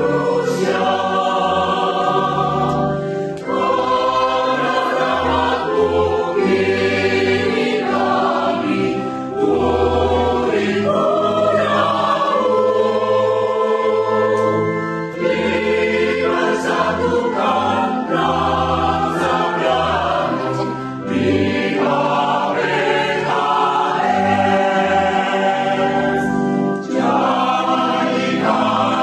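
A choir singing a hymn in several parts, with sustained chords in long phrases and brief pauses between them about every six seconds.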